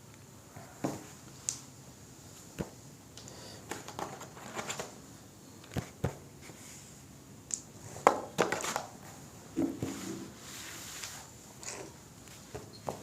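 Oil pastels scratching and rubbing on paper, broken by irregular sharp clicks and taps as pastel sticks and the paper are handled; the loudest tap comes about eight seconds in.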